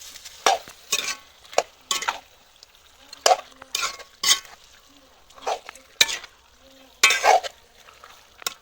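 A spatula stirring and scraping food frying in a pan, in a series of irregular scraping strokes over a faint sizzle.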